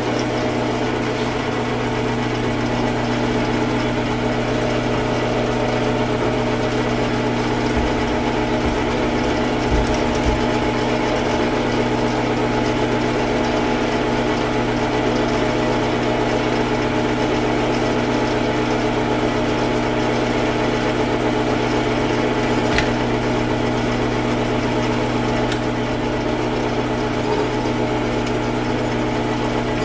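A motor-driven shop machine running steadily with a constant hum and whine, with a couple of faint clicks near the end.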